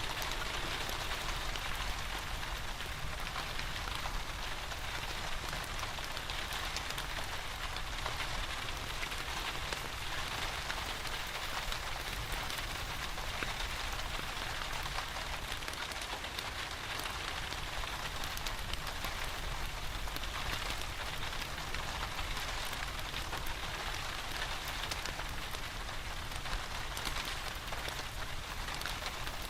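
Steady rain falling, a dense patter of drops over an even hiss, with a fireplace's crackle mixed in.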